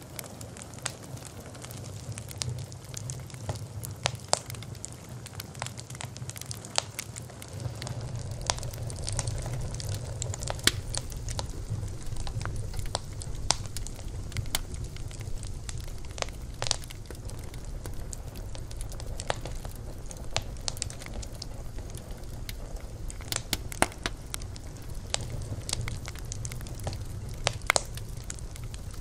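Campfire burning: irregular sharp crackles and pops of wood over a steady low rumble of the flames.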